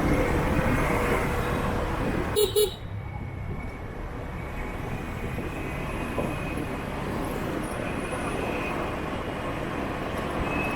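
Steady traffic noise of motorbikes on a city street. About two and a half seconds in, a vehicle horn gives two short beeps.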